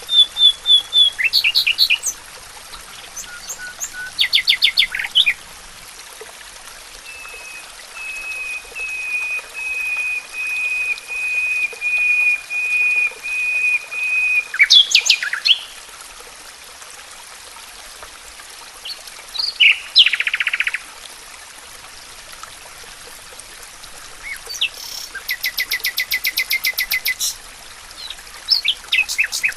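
Wild songbirds singing in separate phrases: fast trills near the start, then a long run of evenly repeated whistled notes at about two a second, a couple of sharp sweeping calls, and another fast even trill near the end, all over a steady background hiss.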